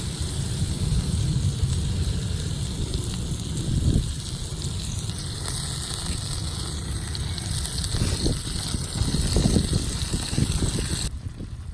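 Wood campfire burning with irregular crackles, wind buffeting the microphone with a low rumble.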